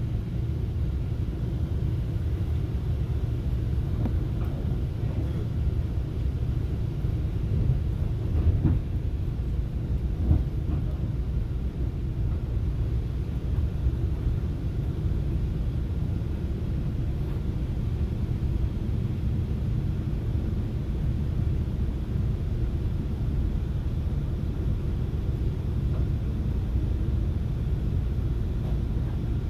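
Steady low rumble of a FrontRunner commuter train running along the track, heard from inside a passenger car, with a couple of faint knocks about eight and ten seconds in.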